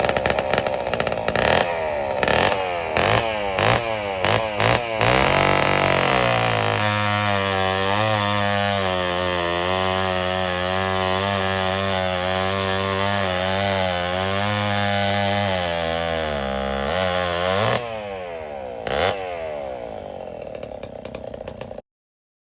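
Vintage gasoline chainsaw engine blipped repeatedly on the throttle, then held at high revs for about ten seconds with its pitch wavering. It drops back with one more short blip, runs lower, and stops abruptly near the end.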